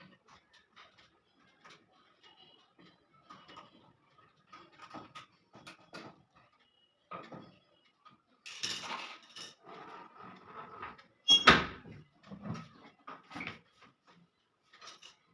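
Hands working on a front-load washing machine's cabinet during reassembly: scattered light clicks, taps and rattles of parts being handled and fitted, with one loud, ringing metallic clank about eleven seconds in.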